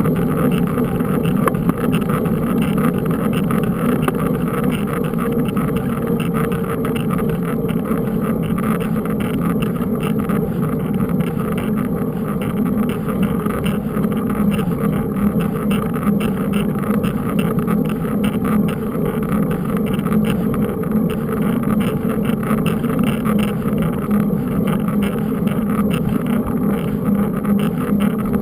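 Steady rumbling noise of riding a mountain bike, with tyre noise and wind buffeting a bike-mounted camera's microphone.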